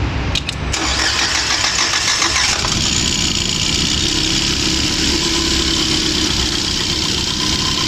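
BAIC BJ40L's four-cylinder turbo engine is started within the first second and settles to a steady idle about two and a half seconds in. It is still misfiring, with the fourth cylinder not firing even after a new injector.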